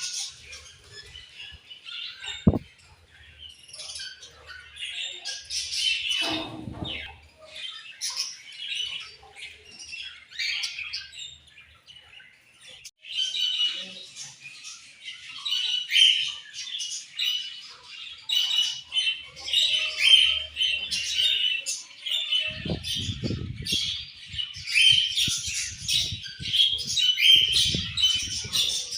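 Budgerigars chirping and chattering in overlapping high calls, busier from about halfway through. A single sharp click about two and a half seconds in, and a few low bumps.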